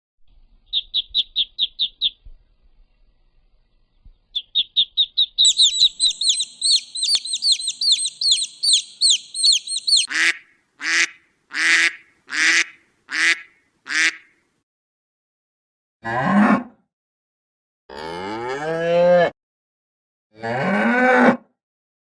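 A run of animal calls: a small bird's rapid, high chirping trills, then six short harsh calls at just under one a second, then three long moos from cattle, each rising and falling in pitch.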